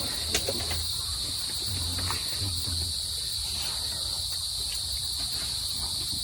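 Steady, shrill insect chorus of the forest, an unbroken high drone with no pauses, with a few faint ticks and taps underneath.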